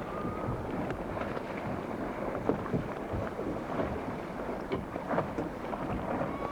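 Wind buffeting the microphone aboard a sailing boat under way, over a steady rush of water along the hull, with scattered small knocks.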